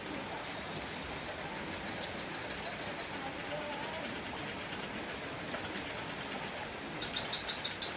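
Steady rain falling, with scattered drops ticking sharply. About seven seconds in comes a quick run of about eight high ticks.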